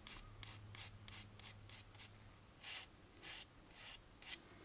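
Sandpaper rubbed in short back-and-forth strokes on a small plastic model-kit part, faint: cross sanding to take off a sprue cutoff point. The strokes come several a second for the first two seconds, then a few slower, spaced-out ones, over a steady low hum.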